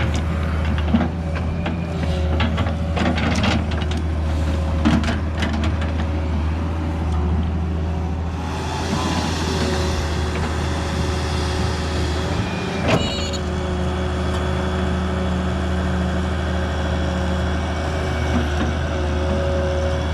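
Excavator's diesel engine running steadily under a constant hydraulic whine, with clanks and knocks in the first few seconds, a hiss in the middle and a single sharp clank about two-thirds of the way through.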